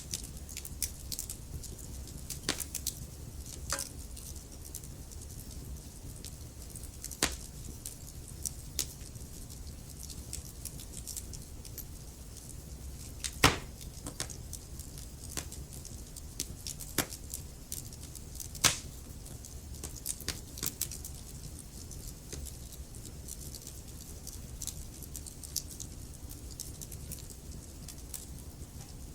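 Wood fire in a fireplace, burning logs crackling with a steady low rumble of flame and frequent small sharp pops, two louder ones in the middle.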